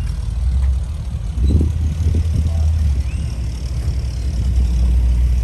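A car engine running nearby, a steady low rumble that swells briefly a couple of times.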